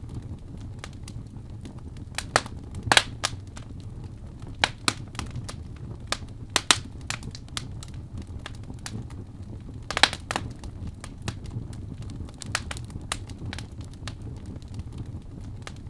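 Wood fire burning in a fireplace, crackling with irregular sharp pops over a low steady rumble; the loudest pops come about three seconds in and about ten seconds in.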